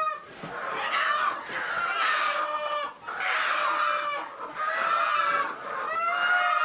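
Chickens calling: about five long calls, each around a second, one after another.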